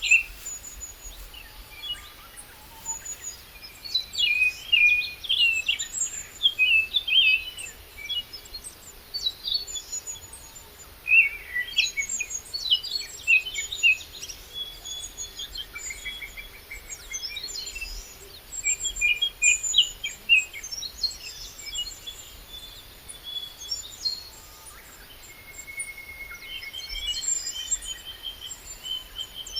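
Several small birds singing, overlapping short high chirps and trills that come in bursts with brief lulls between them.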